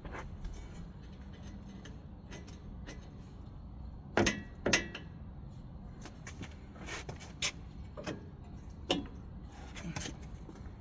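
Scattered metallic clinks and knocks of hand tools against steering parts under a pickup truck, with two louder knocks close together about four seconds in.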